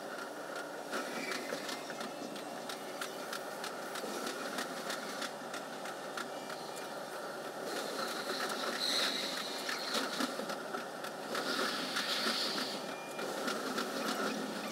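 Running noise of a JR 373-series electric train heard from inside, behind the driver's cab, played fast: a dense, rapid clatter of wheels on rail with the train's steady hum. It grows louder about halfway through, with two brief high-pitched hissing squeals.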